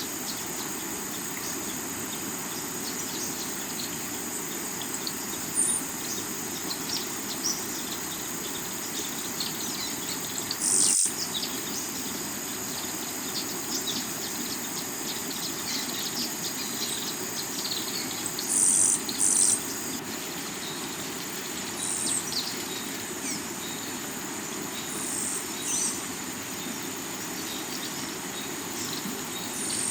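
A rocky river's water rushing steadily, with insects trilling in a steady high drone. Short high bird chirps come in about eight times, and these are the loudest sounds.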